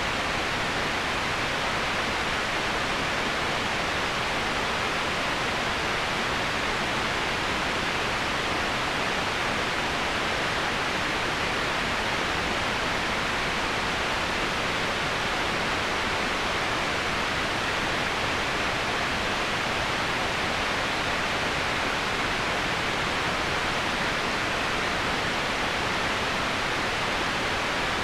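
Steady, unbroken rush of running water, an even hiss with no single splashes standing out.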